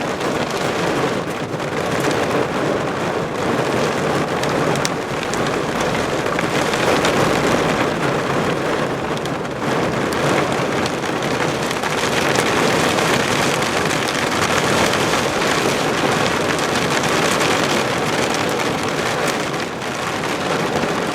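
Heavy rain falling steadily in a thunderstorm.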